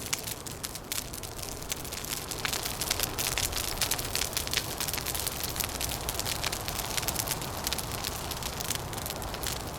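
Wood fire crackling with dense, irregular pops and snaps over a steady low rush of wind.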